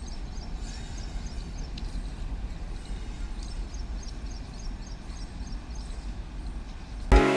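Steady low rumble of a train on the move, with faint groups of high chirps over it. Loud music cuts in right at the end.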